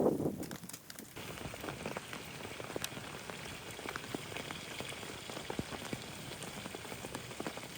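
Rain pattering on a surface: a dense, steady patter of many small drops that starts abruptly about a second in.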